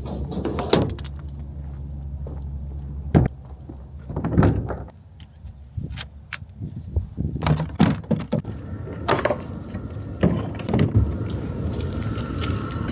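Kayak-unloading gear being handled at a truck: a string of separate knocks, thuds and clunks with some jangling. A low steady hum sits under the first few seconds.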